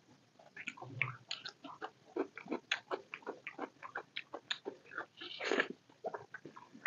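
Close-miked chewing and wet mouth clicks while eating curry and rice, a quick string of short smacking sounds. A longer, louder one comes about five and a half seconds in.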